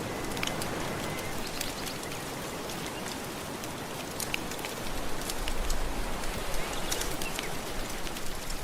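Wood fire crackling with scattered sharp pops over a steady wash of gentle ocean waves, the wash swelling a little about five seconds in.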